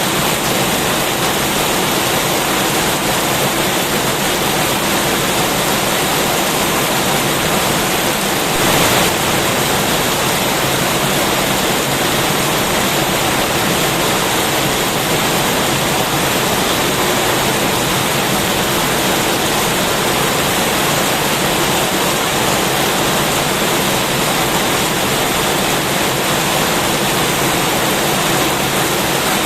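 Heavy rain pouring down steadily in a dense, even hiss, with a brief louder burst about nine seconds in.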